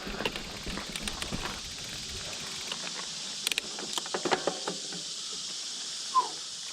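Steady high buzz of insects from swampy woods, with a few light clicks partway through and one short squeak near the end.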